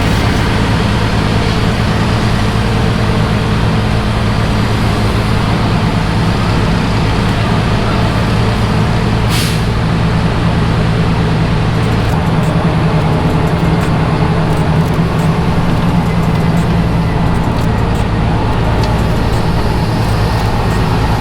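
Heavy truck's diesel engine running steadily under way, its pitch shifting slightly about twelve seconds in. A short hiss of air about nine seconds in.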